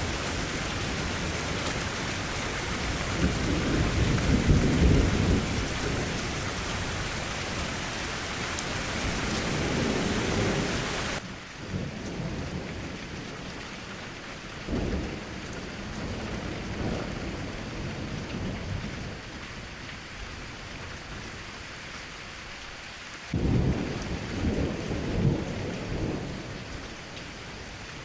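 Steady rain sound effect with low rumbles of thunder rolling in and out. Partway through the heavy rain cuts off suddenly to a lighter, quieter rain, and a strong rumble of thunder builds near the end.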